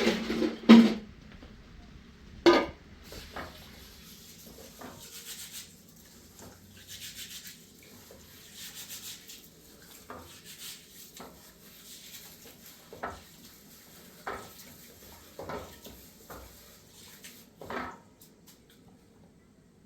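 Scattered knocks and clatters with soft scraping in between: two loud knocks at the start, another about two and a half seconds in, then lighter knocks about once a second.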